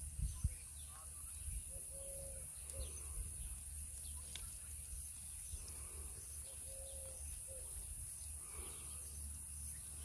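Bird calls: a low three-note cooing phrase with a longer middle note, given twice, over faint scattered chirps. A few low thumps in the first half-second are the loudest sounds.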